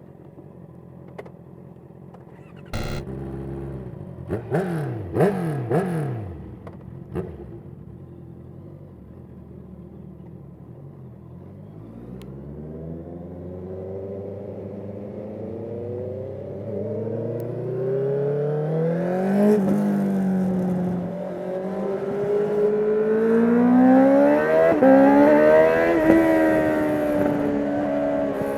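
2019 Honda CB650R inline-four through an Akrapovic full titanium exhaust: a few sharp throttle blips about three seconds in. Then it settles and the bike pulls away, the revs climbing through the gears with quick drops at the upshifts, heard from a mic carried in the rider's backpack.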